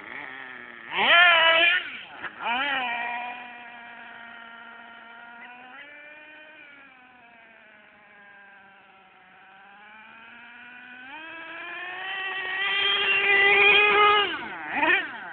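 HIMOTO MegaP MXT RC monster truck's small .21 nitro engine revving: two sharp blips about a second and two and a half seconds in, a steadier buzz whose pitch sags in the middle, then a long climb to a loud, high-pitched rev near the end.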